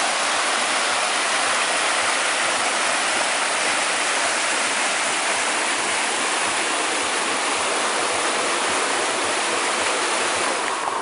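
Waterfall cascading, a steady, even rush of falling water that cuts off suddenly at the end.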